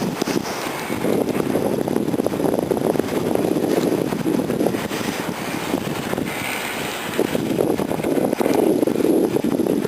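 Blizzard wind gusting and buffeting the microphone, a low rushing noise that swells and eases in waves.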